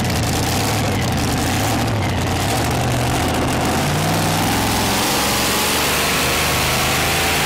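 Pulling tractor's Hemi V8 engine running at full throttle under heavy load as it drags the weight sledge down the track. The sound is loud and steady throughout.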